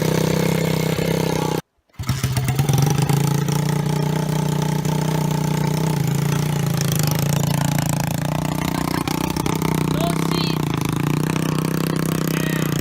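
Lifan 125cc single-cylinder four-stroke pitbike engine running at a steady idle. A moment of dead silence about two seconds in breaks it, and around the middle the engine note rises slowly.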